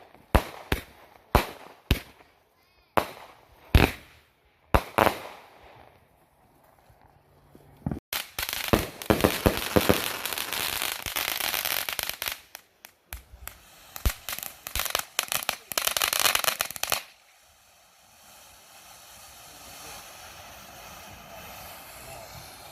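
Consumer fireworks going off, starting with a series of sharp bangs about every half second to a second. About 8 seconds in comes a long run of dense, rapid crackling like a string of firecrackers, which stops suddenly. It is followed by a steady hiss that slowly grows louder.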